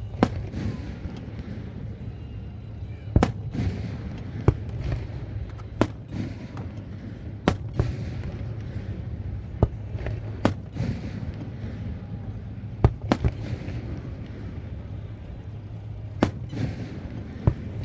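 Fireworks display with aerial shells bursting: about a dozen sharp booms at irregular intervals, one to three seconds apart, each trailing off briefly, over a steady low hum.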